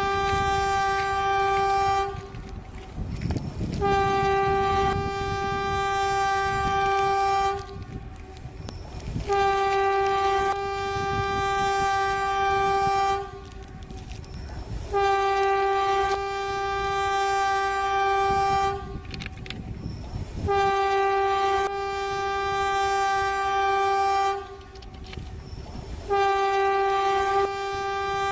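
Train horn sounding in about six long blasts on one steady note, each lasting a few seconds with short gaps between, over the low rumble of a running train.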